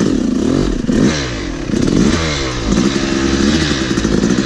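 Yamaha YZ250 two-stroke dirt bike engine revving up and down repeatedly, the revs rising and falling several times in quick succession while the bike is worked through a bad line on rough ground.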